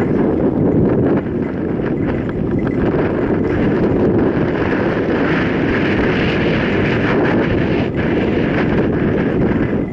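Mountain bike riding over a dirt trail: tyres rolling on dirt and the bike rattling over bumps, with wind rushing on the microphone.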